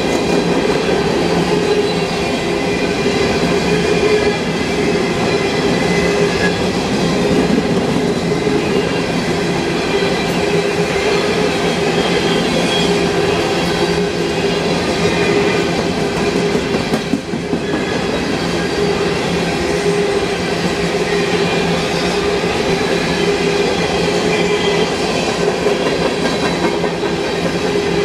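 Loaded coal train's steel hopper cars rolling past close by: a steady rumble of wheels on the rails with a humming tone running through it, dipping briefly about two-thirds of the way through.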